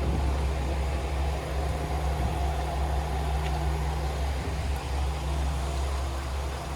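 Diesel engine idling with a steady low hum.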